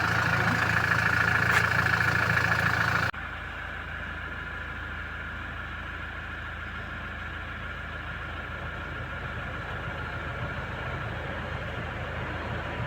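Toyota Innova engine idling steadily. About three seconds in, the sound drops abruptly to a quieter, duller steady hum.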